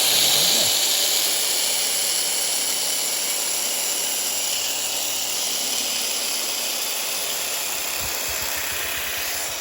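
Heat gun running steadily, an even blowing hiss.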